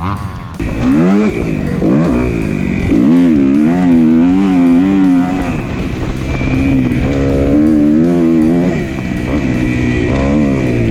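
Motocross dirt bike engines revving, the pitch sweeping up about a second in and then rising and falling with the throttle.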